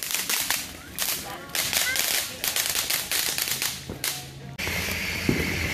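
Ground fireworks crackling in a rapid, irregular run of sharp pops. About four and a half seconds in, the sound changes abruptly to the steady hiss of a fountain firework spraying sparks.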